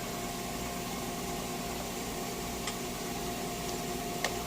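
Shop air compressor running with a steady mechanical hum, with two light clicks, one past the middle and one near the end.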